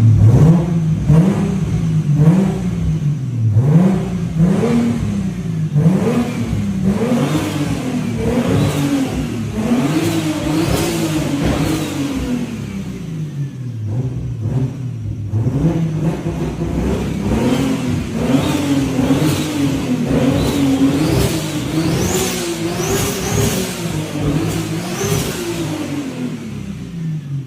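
Single-turbo Nissan Skyline GT-R R34 engine being revved over and over, its pitch rising and falling with each blip. The early blips are quick and the later revs are longer. High whistling can be heard over some revs near the end.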